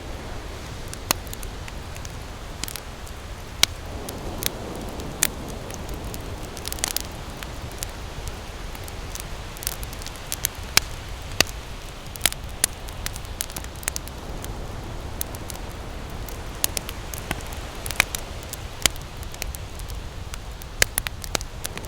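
Campfire crackling, with frequent sharp irregular pops over a steady low rush of ocean surf.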